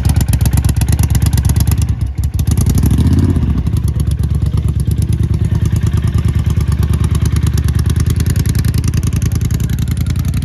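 Ducati Monster 1200's L-twin engine running under way. There is a brief dip about two seconds in, then a short rise in revs, then it settles into steady running.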